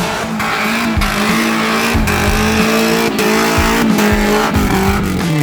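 Suzuki Vitara's engine running at fairly steady revs while driving off-road, with sharp knocks about once a second.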